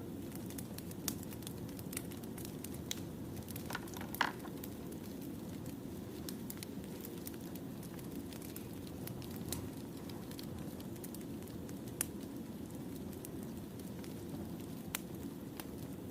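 Wood fire burning, a steady low rush of flames with scattered sharp crackles and pops, one louder pop about four seconds in.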